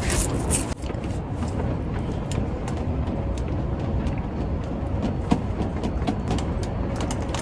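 Strong wind buffeting the microphone as a steady low rumble, with scattered sharp clicks and crackles, more of them in the first half-second.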